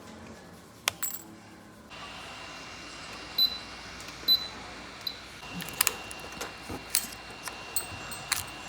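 Small metal tools and phone parts clicking and clinking on a hard work surface: a dozen or so sharp taps, some with a brief high ring. A steady faint hiss with a thin high whine comes in about two seconds in.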